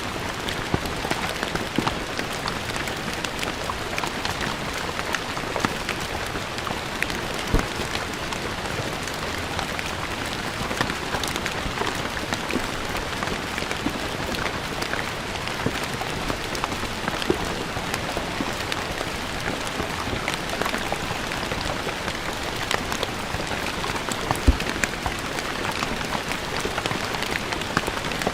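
Steady rain falling on stone ground, a dense even patter with many separate drops splashing, a few of them louder.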